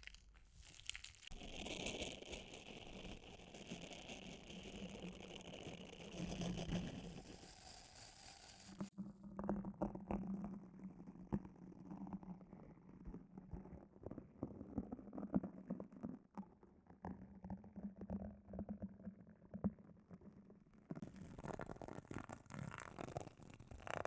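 Close-miked ASMR trigger sounds: soft rustling, then dense crackling and small clicks of objects handled right at the microphone. The texture changes about nine seconds in and again near the end.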